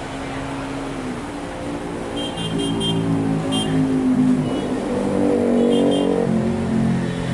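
Double-decker bus's diesel engine running and revving, its pitch shifting and the sound swelling from about two seconds in. Short high beeps come in quick groups several times over it.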